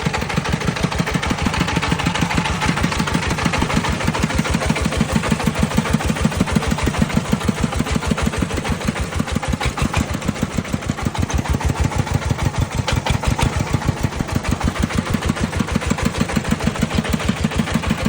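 Farm vehicle's engine running steadily with an even chugging beat of about five or six pulses a second.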